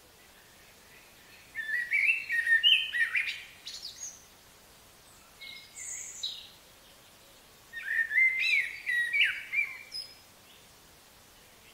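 A songbird singing: two bursts of quick, varied whistled phrases a few seconds apart, with a short group of thin, higher notes between them, over faint background hiss.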